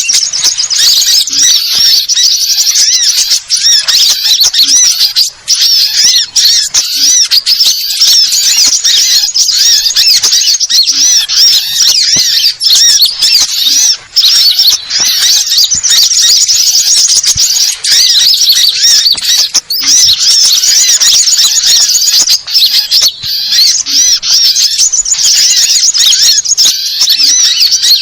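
Dense chorus of quick, high-pitched chirps and twittering trills from many small birds, sunbirds among them, overlapping without a break: a mixed small-bird lure recording.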